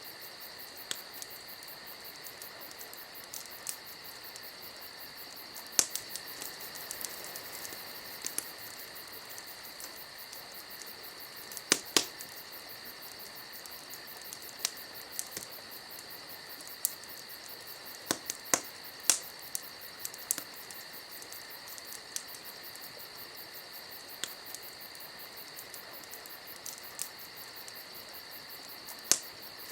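Wood fire crackling, with sharp pops at irregular intervals over a steady high hiss; a few pops stand out louder, two of them close together a little before the middle and a cluster in the second half.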